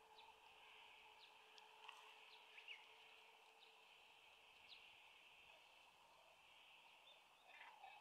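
Near silence: faint outdoor ambience with a few short, high bird chirps scattered through the first half.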